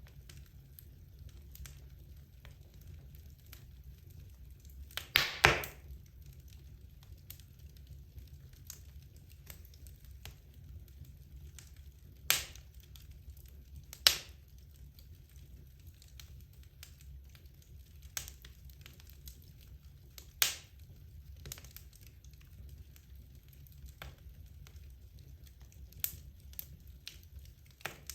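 Wood logs burning in a fireplace: a low steady rumble of the fire with scattered crackles. A loud burst of pops comes about five seconds in, and single sharp cracks follow a few times later.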